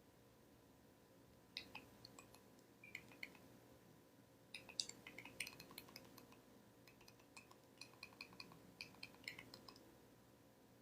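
Faint scattered clicks and light clinks of small hard objects, coming in three short clusters.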